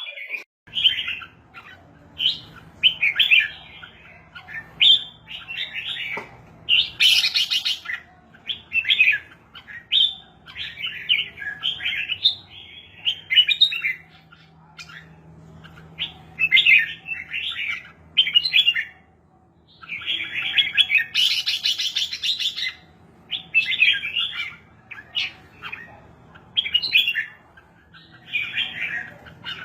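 Red-whiskered bulbul song: short, bright whistled phrases repeated in quick succession, with two harsher, noisier bursts among them.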